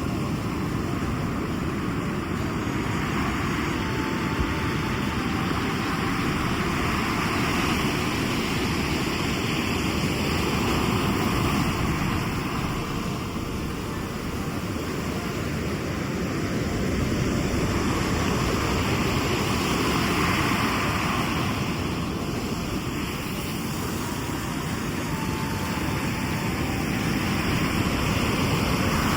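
Sea waves breaking on the shore in a steady, deep rumble of surf that swells and eases every several seconds.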